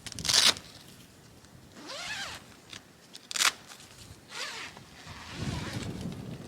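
A zipper pulled in about four quick rasping strokes, one of them rising in pitch, followed by low rustling of fabric.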